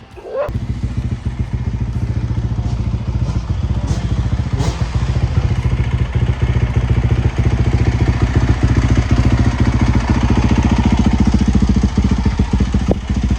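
Dirt bike engine running steadily with a fast, even firing pulse, coming in about half a second in.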